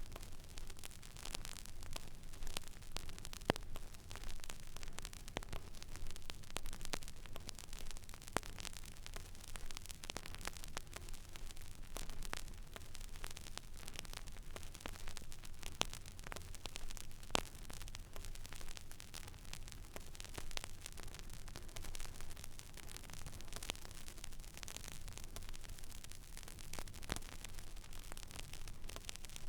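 Stylus riding an empty vinyl record groove: steady surface hiss with a low hum and irregular crackles and pops, a few sharper pops standing out.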